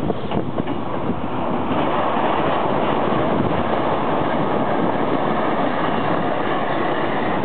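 Hankyu 8300 series electric commuter train running past at close range: a steady, noisy rumble of wheels on rails that grows a little louder about two seconds in.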